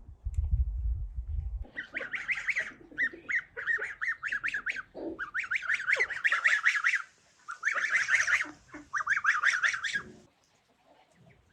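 Farmyard poultry calling: four or five bouts of rapid, repeated harsh calls, after a low rumble in the first second and a half.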